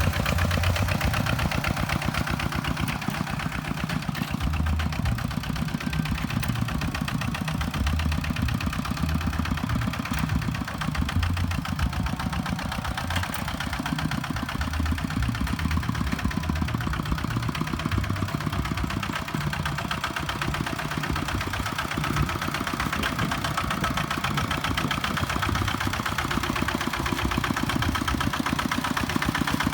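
Kubota tractor's diesel engine running steadily at an even speed, with a fast regular firing beat.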